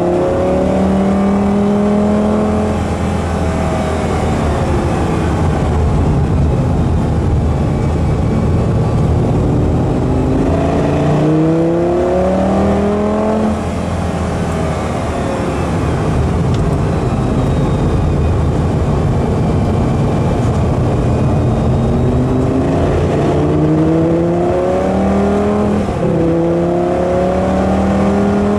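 Lamborghini Gallardo's V10 engine heard from inside the cabin under hard acceleration on track. The revs climb and drop back in quick runs of upshifts three times, with steadier, lower stretches between as it eases off for corners.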